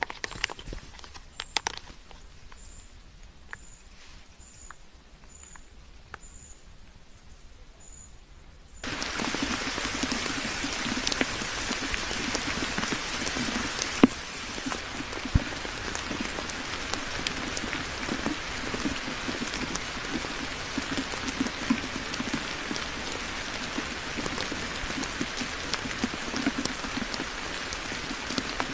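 Rain falling, a dense steady patter with many sharp drop ticks, starting abruptly about nine seconds in. Before it, only scattered faint clicks and a faint high peep repeated about once a second.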